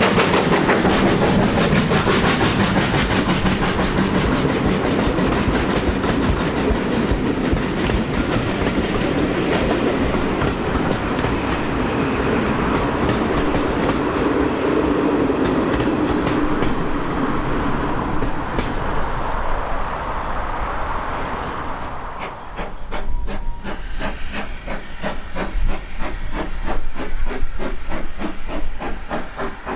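Train running past on the line, wheels clicking over the rail joints; about 22 seconds in the dense rumble thins out into a regular, evenly spaced beat.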